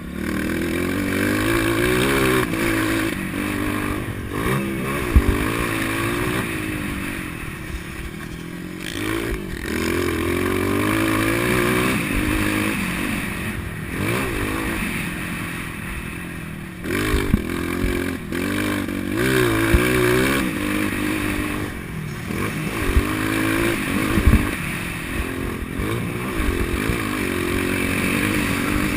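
Motocross bike engine revving hard and easing off again and again, its pitch climbing and dropping with each burst of throttle and gear change, with a few sharp knocks scattered through.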